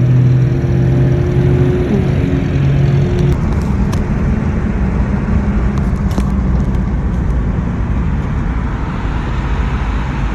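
Car engine running at a steady pitch, which dips about two seconds in and fades out a second later, leaving a steady low rumble of road and wind noise.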